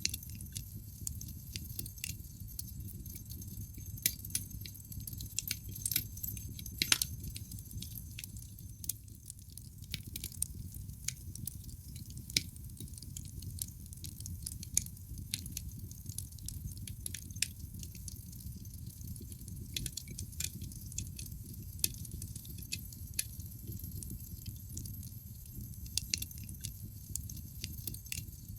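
Wood fire burning in a fireplace: a low steady rumble of the flames under irregular sharp crackles and pops from the burning logs, a few louder pops standing out.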